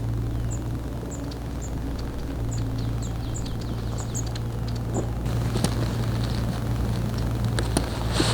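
Outdoor ambience with a steady low hum. A small bird gives short high chirps about once or twice a second for the first five seconds or so. A few sharp snaps or clicks come near the end.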